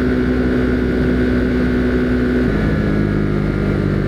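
Husqvarna Svartpilen 401's single-cylinder engine running at riding speed with wind rush. About two and a half seconds in, the engine note drops abruptly to a lower pitch and carries on steadily.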